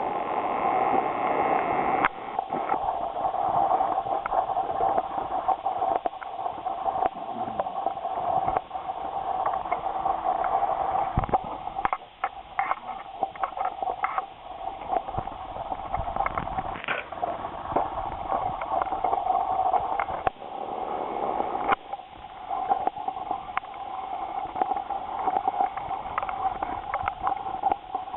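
Footsteps crunching in deep snow, many short irregular crunches and knocks over a steady rushing noise.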